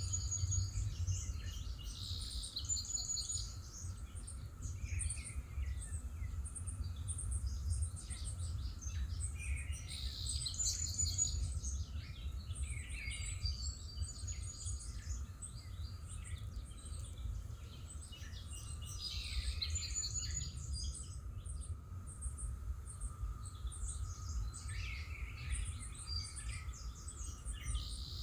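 Outdoor ambience of songbirds singing and calling in repeated bouts of chirps and trills, over a faint steady low rumble.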